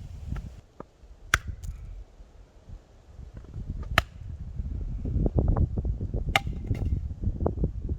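Axe chopping wood: four sharp strikes a second or more apart, over a low rumble that grows louder in the second half.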